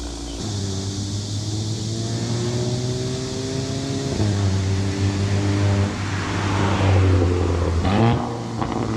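Volkswagen Golf GTI engine and exhaust under acceleration. The pitch climbs steadily through each gear and drops at the gear changes: just after the start, about four seconds in, and near the end, where it is loudest.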